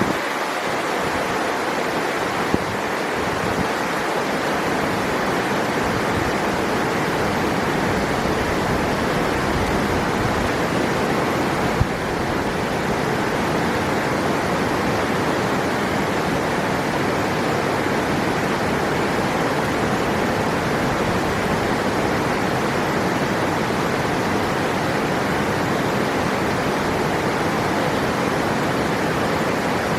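River water flowing steadily: a dense, even rush of moving water.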